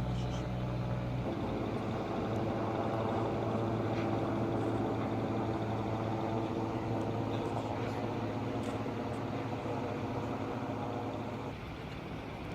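An engine running steadily, its note shifting about a second in and easing off a little near the end.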